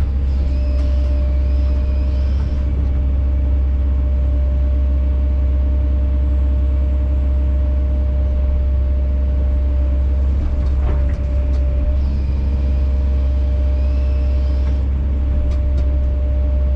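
Kobelco SK210 excavator's diesel engine running steadily, with a higher whine that comes in twice: near the start and again about twelve seconds in.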